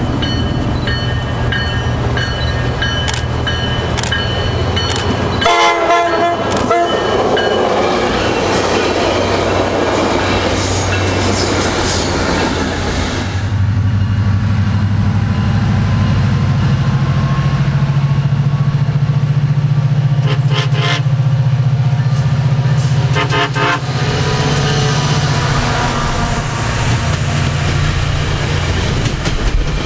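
Passenger trains approaching with a steady low rumble, a train horn sounding about six seconds in. After a cut, a SunRail commuter train approaches and passes close by with its diesel running, its horn sounding in short blasts in the latter half.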